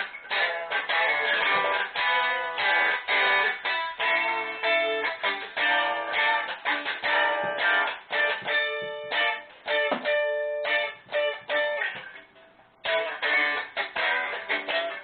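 Guitar playing a quick run of plucked notes, with a few held, ringing notes about nine seconds in and a short pause near the end before the playing picks up again.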